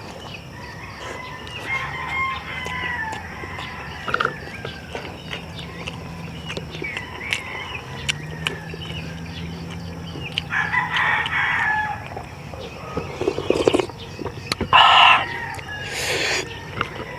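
A rooster crowing several times in the second half, the loudest crow near the end. Soft clicks of eating run underneath.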